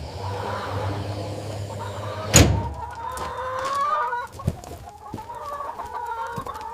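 A flock of chickens clucking and calling, with longer drawn-out calls from about three seconds in. A single sharp knock sounds about two and a half seconds in.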